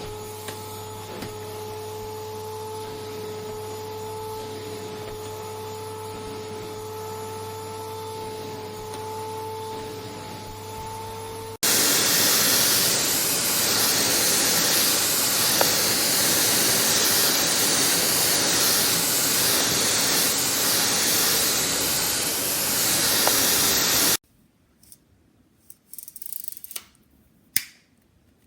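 Vacuum cleaner running: a steady motor hum with a two-tone whine, then after a sudden cut a much louder, even rushing hiss of suction for about twelve seconds. Near the end it gives way to near quiet with a few small clicks and rubs.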